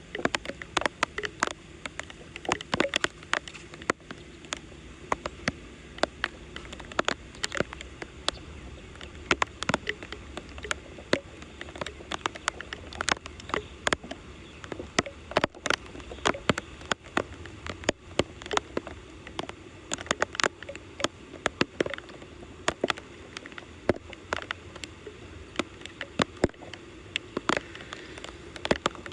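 Flowing floodwater with frequent, irregular sharp clicks and taps over a steady rushing noise.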